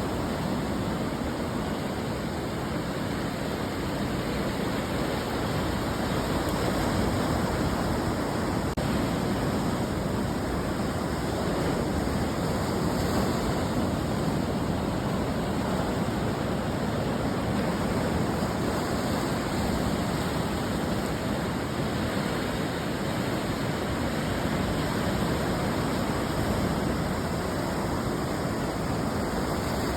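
Ocean surf washing onto a beach, an even, steady rush of noise with no single wave crash standing out.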